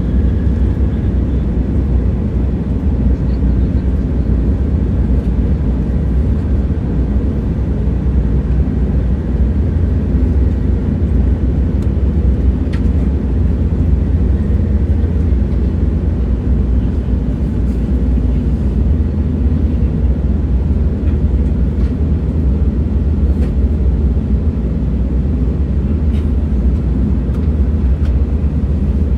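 Train in motion, a steady low rumble with a few faint clicks.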